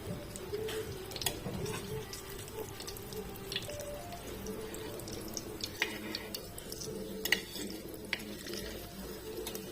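Aloo tikkis shallow frying in hot oil, a steady sizzle with scattered small pops and crackles. Soft background music plays throughout.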